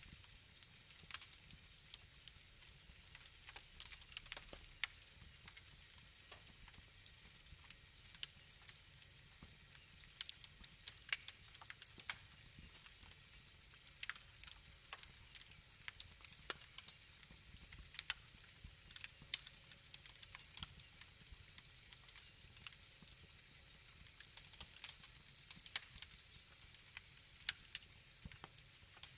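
Wood fire crackling, with irregular sharp pops and snaps of burning wood over a faint steady hiss.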